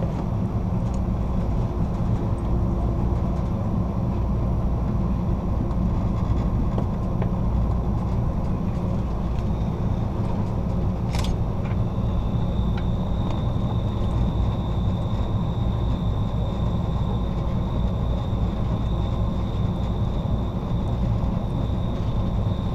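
Passenger train running on the rails, a steady low rumble from the wheels and cars. About ten seconds in, a thin, steady high squeal starts and holds: the wheels squealing through the horseshoe curve. A sharp click comes just after the squeal begins.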